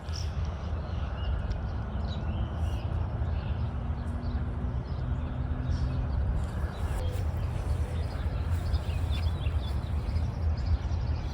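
Outdoor ambience: a steady, uneven low rumble like wind on the microphone, with birds chirping now and then.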